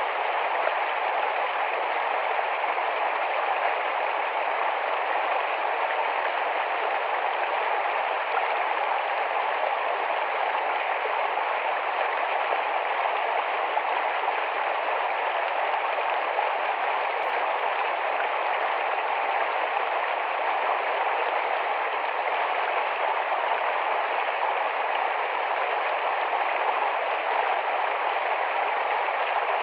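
Small, fast-flowing forest stream: a steady, even rush of running water.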